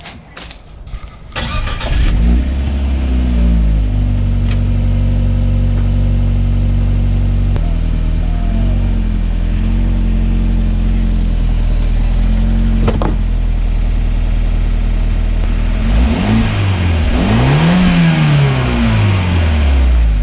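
Fiat 124 Spider's 1.4-litre turbocharged four-cylinder engine starting: a brief crank, then it catches, flares up and settles to a steady idle. Near the end it is revved twice, the pitch rising and falling each time.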